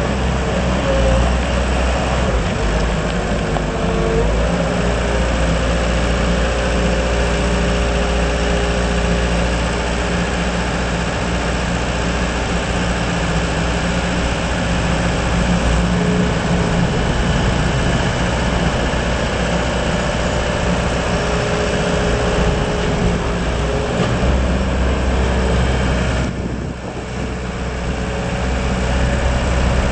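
Deutz diesel engine of a Gehl SL5635 Series II skid steer loader running steadily. It drops briefly near the end, then picks up again.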